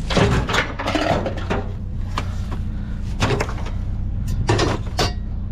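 A series of irregular knocks and clatters, as things are handled, over the steady low hum of an idling vehicle engine.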